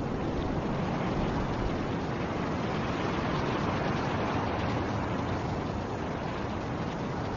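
Snowstorm wind blowing in a steady low rush that swells slightly and eases.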